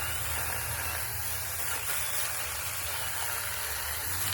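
Saker handheld mini battery chainsaw running and cutting through a branch: a loud, steady hiss of the chain in the wood that starts abruptly and stops just after the cut.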